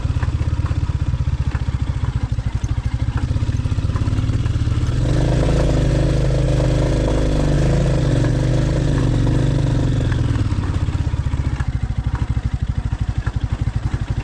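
Royal Enfield motorcycle engine running as it climbs a steep road. The note gets louder and fuller for about five seconds in the middle, then settles back.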